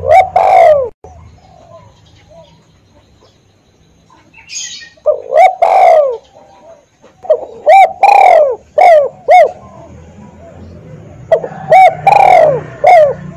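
Spotted dove cooing loudly in repeated phrases, four groups of several arching notes each, with pauses of a second or two between them. A low steady hum lies underneath.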